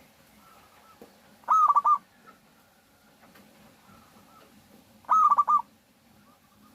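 Zebra dove (perkutut) cooing: two loud call phrases, about one and a half seconds and five seconds in, each a quick run of four or five notes. Fainter cooing sounds between them.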